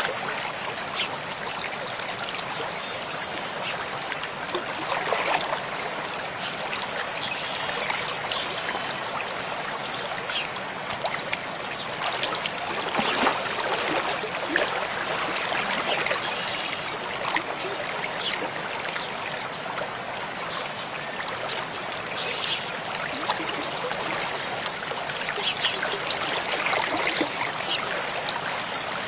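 Mountain stream flowing over rocks: a steady rush of water with frequent small splashes and gurgles.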